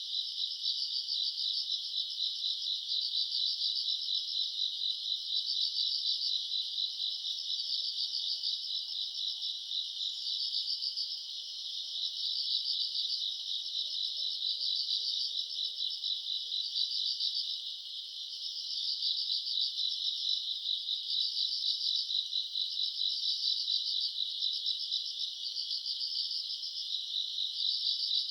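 Night chorus of crickets and other grass insects: dense, continuous high trilling that pulses in regular swells.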